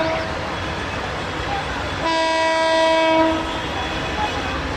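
Train horn sounding twice over the steady running noise of a train: the end of one blast just as it begins, then a second blast of about a second and a half about two seconds in.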